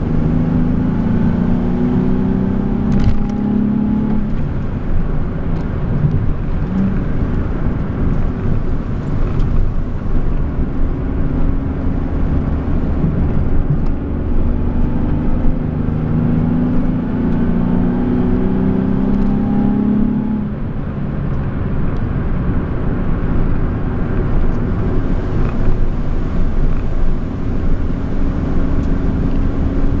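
Nissan 370Z's 3.7-litre V6 heard from inside the cabin, accelerating twice with its engine note rising: once for about four seconds near the start and again for about five seconds past the middle. Steady road and tyre rumble runs underneath.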